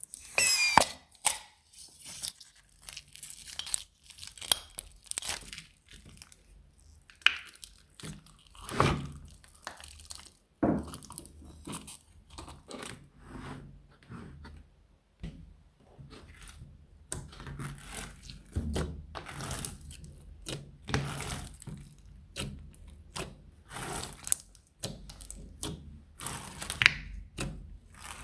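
Slime being mixed by hand, giving a run of irregular crackles and pops of uneven loudness.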